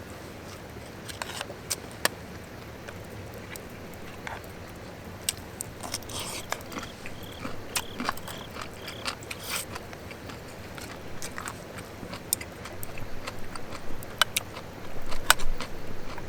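Close-up eating sounds: chewing and biting, with scattered small sharp clicks. The activity gets busier and louder near the end.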